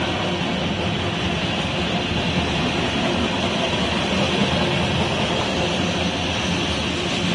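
Covered hopper cars of a freight train rolling past: a steady, even rumble of steel wheels on rail.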